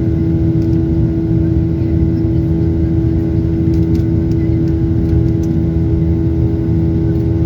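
Steady drone of a passenger jet heard inside the cabin: a constant low rumble with a steady hum running through it.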